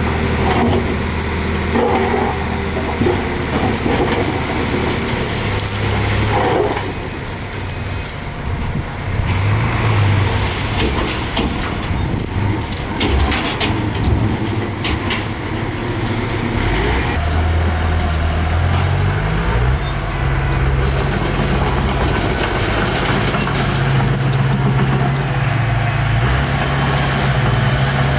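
Diesel engine of heavy construction machinery working under load, its pitch rising about two-thirds of the way through and then holding steady, with scattered metallic knocks in the middle.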